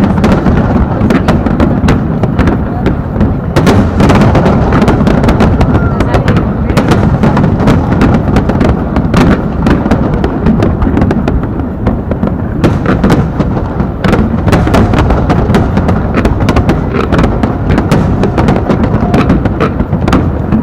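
Aerial fireworks going off in a rapid, continuous barrage. Many loud bangs and crackles overlap over a steady low rumble, with no break.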